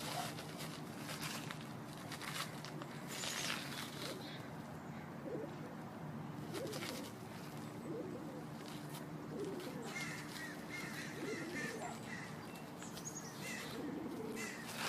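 Doves cooing in short repeated calls every second or two, with scattered high chirps of smaller birds over a faint steady hum.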